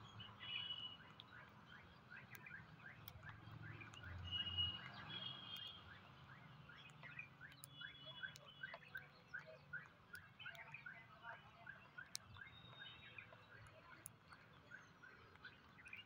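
Faint bird chirping: a long, even run of short chirps at about three a second, with a few higher chirps and scattered soft clicks.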